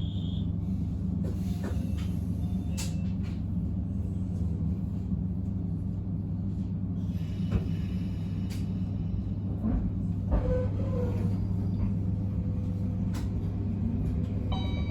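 Running noise of an Abukuma Express 8100 series train heard from inside the car: a steady low rumble with a few scattered clicks.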